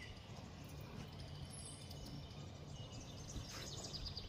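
Faint, scattered chirps of small birds over a steady low background rumble.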